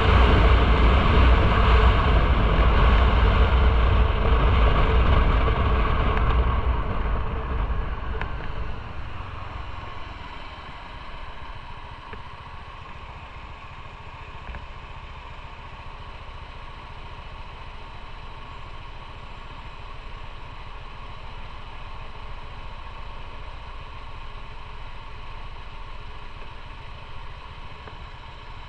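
Motorcycle riding with engine and wind noise that dies away over the first ten seconds or so as it slows to a stop, then the engine idling steadily.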